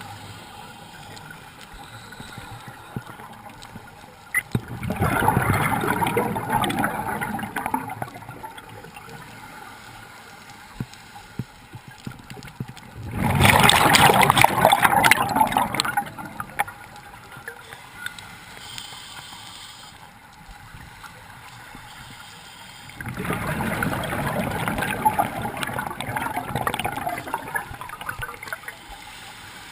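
Scuba diver breathing through a regulator, heard underwater: three bursts of exhaled bubbles, each about three seconds long and spaced about nine seconds apart, with quieter hiss between them.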